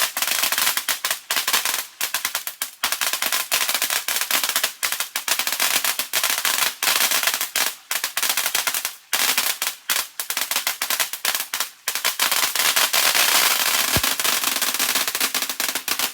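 Firework going off in a long, continuous run of rapid small bangs and crackles, like a string of firecrackers, with a couple of brief lulls partway through.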